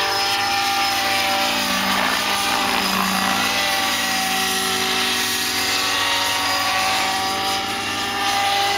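Radio-controlled model helicopter in flight: a steady whine of its motor and rotor made up of several tones, with small shifts in pitch.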